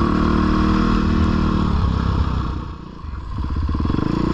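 450 four-stroke single-cylinder dirt bike engine running under throttle. About two and a half seconds in the throttle is closed and the engine note drops away. It then picks back up at low revs, each firing pulse audible.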